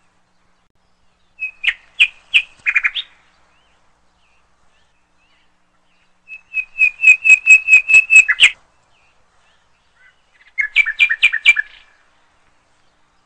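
A small bird chirping in three short bursts of quick repeated high notes, the middle burst the longest.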